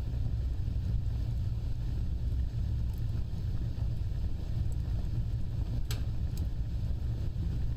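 Wood fire burning with a steady low rumble of flames and a few sharp crackles, the loudest about six seconds in.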